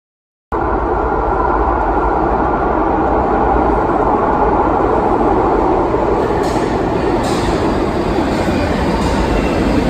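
Lisbon Metro train running with a steady, loud rumble that cuts in abruptly about half a second in, with a couple of faint high clicks midway.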